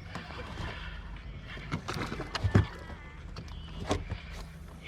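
Scattered knocks and clicks on the hull of a 14 ft aluminium jon boat, with one heavier thump about halfway through, over a steady low hum. This is gear and the catch being handled in the boat while a trout is landed.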